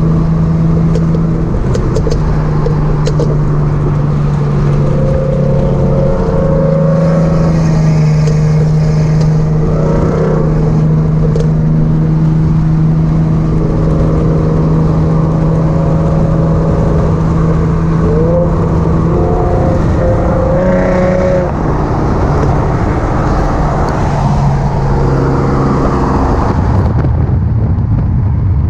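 Car engine droning at a steady cruising speed over road noise, its pitch stepping up or down a few times and briefly rising and falling once, about two-thirds of the way through.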